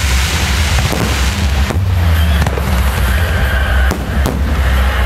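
Fireworks display: aerial shells bursting and crackling continuously, with a few sharper bangs standing out near the middle.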